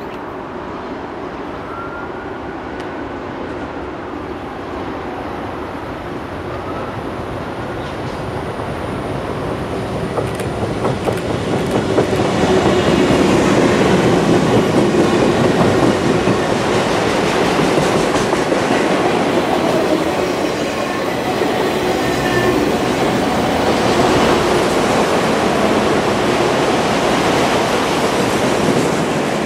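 CSX freight train approaching and passing: the sound grows steadily as the diesel locomotives come up and go by about twelve seconds in, then stays loud as empty autorack cars roll past with steady wheel-on-rail rumble and clatter.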